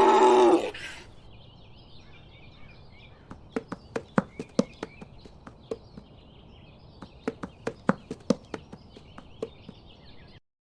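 A donkey's bray ending about a second in. Then faint birdsong over a quiet outdoor background, with a scattered series of sharp clicks and knocks. The sound cuts off suddenly near the end.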